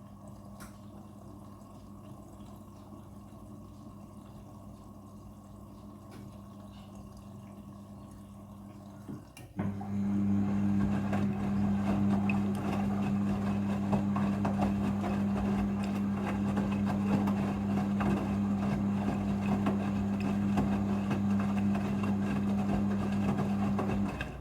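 Front-loading washing machine taking in water for a rinse. A low steady hum, then about nine seconds in a click and water rushing in, much louder, over a stronger hum.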